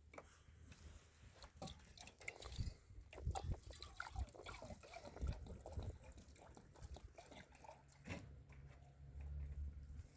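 Faint sounds of people eating: scattered small clicks and soft chewing and handling of food.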